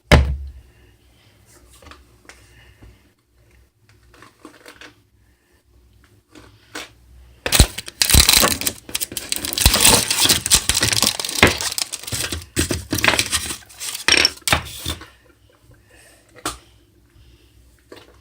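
A sharp knock at the very start, then light scattered clicks. About halfway through comes a loud stretch of close, scratchy rustling and scraping, lasting about seven seconds.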